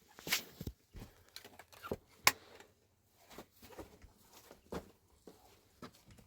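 Scattered light knocks and clicks at an uneven pace, the sharpest a little over two seconds in.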